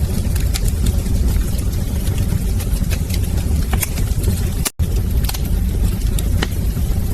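Wood fire crackling in a fireplace: a steady low rumble of the flames with frequent sharp, irregular pops and snaps. The sound cuts out completely for a split second about two-thirds through.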